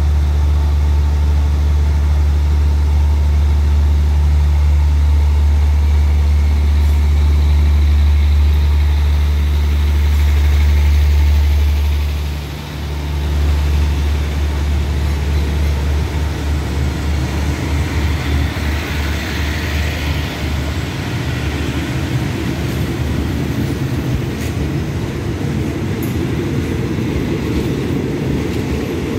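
Diesel-hauled passenger train pulling out: a steady low diesel hum, which dips briefly about halfway. The carriages then roll past with a pulsing rumble of wheels on the rails that grows louder near the end.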